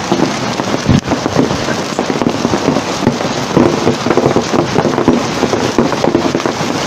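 Heavy hail pelting hard surfaces: a dense, continuous clatter of countless hailstone impacts, with one louder knock about a second in.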